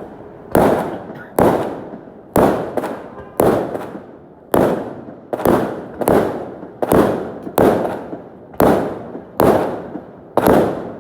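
Fireworks display: aerial shells bursting one after another, about one bang a second and sometimes two in quick succession, each sharp crack fading off in echo.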